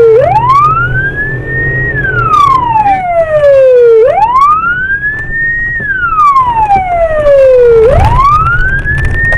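Police car siren in wail mode: a slow rise over about two seconds, a short hold at the top, then a slow fall, repeating about every four seconds, over the low hum of the vehicle.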